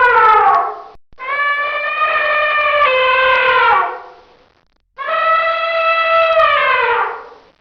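Elephant trumpeting: a call that is already sounding fades out about a second in, then two more long trumpet calls follow with short gaps between, each holding a steady pitch and sliding down at its end.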